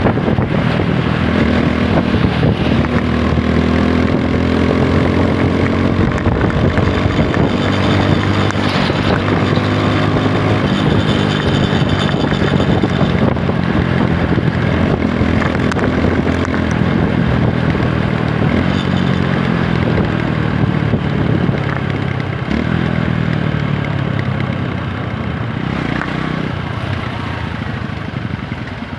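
TVS Apache 160 4V's single-cylinder engine running under way, its revs climbing and dropping several times as the motorcycle pulls through the gears in traffic.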